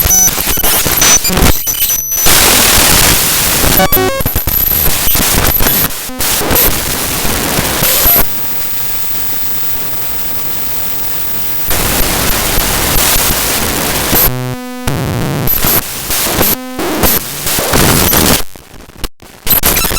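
The ffmpeg.exe program file's binary data played back as raw audio: harsh static and noise that changes abruptly from one stretch to the next. A quieter, steady hiss lasts a few seconds in the middle, short stepped buzzing tones come a little later, and the sound drops nearly to silence briefly near the end.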